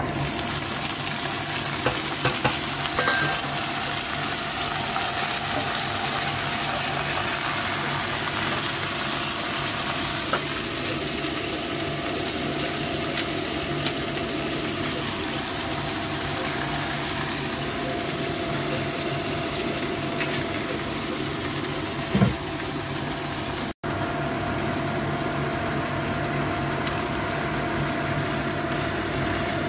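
Enoki-stuffed chicken wings sizzling as they fry in hot oil in a wok, a steady hiss over a low steady hum. A few light utensil knocks early on the pan, and one louder clatter past two-thirds of the way through.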